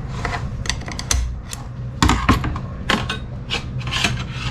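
Tools and metal transmission parts clicking and knocking at irregular intervals, about ten sharp strikes, as a 42RE transmission clutch assembly is taken apart.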